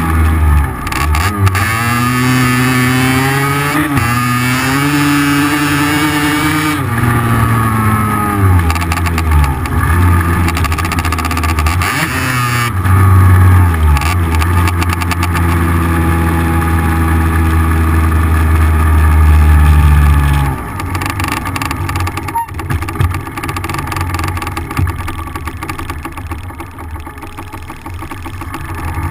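Small 50 cc two-stroke dirt bike engine under way: it revs up with its pitch rising, breaks and climbs again as it goes through the gears, then holds steady and loud at speed. About two-thirds through it drops to a quieter, lower note as the throttle comes off.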